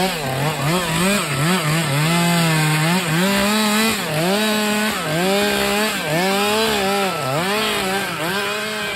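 Chainsaw running flat out through wood. Its pitch sags each time the chain bites in and climbs back between cuts, again and again.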